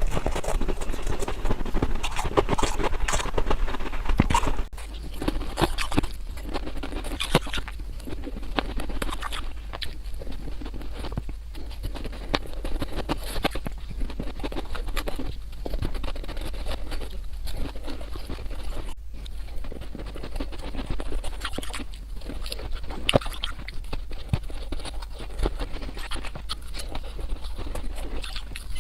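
Rapid, dense crunching and cracking of hard white ice being bitten, sped up so the bites run together. The crunches get somewhat quieter about five seconds in.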